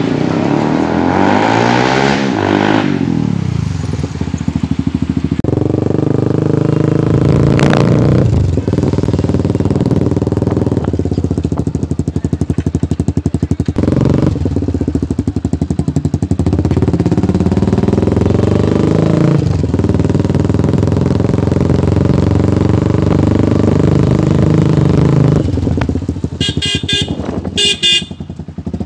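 Yamaha R15 V2's single-cylinder engine running through a Jewel Joseph full-system exhaust, revved up and dropping back several times. Near the end a vehicle horn honks a few short times.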